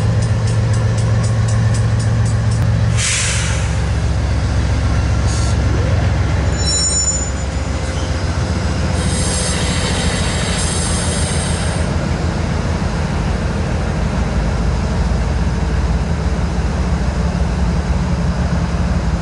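Train rolling by with a diesel locomotive engine running steadily underneath. A short burst of hiss comes about three seconds in, brief high-pitched wheel squeal near seven seconds, and more hiss a couple of seconds later.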